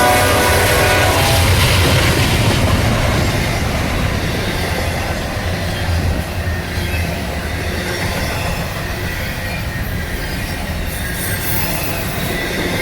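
Diesel-hauled intermodal freight train rolling past at speed: a steady rush of steel wheels on rail with rhythmic clacking over the rail joints, over a low locomotive rumble that eases after the first few seconds. The last of a horn chord dies away right at the start.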